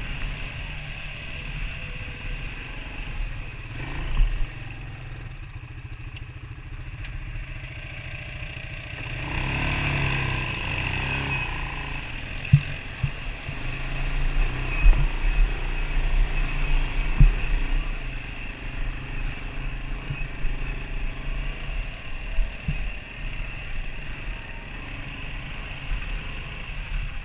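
Off-road vehicle engine running steadily at low speed. It picks up about nine seconds in and again from about fourteen seconds, with a few knocks along the way.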